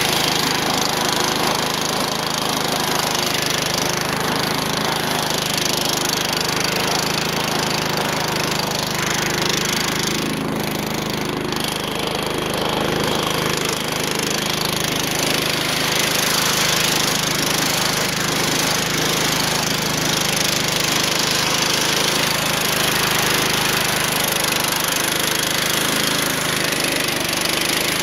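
Small garden tractor engine running steadily at a constant speed, warming up after a cold start in freezing weather.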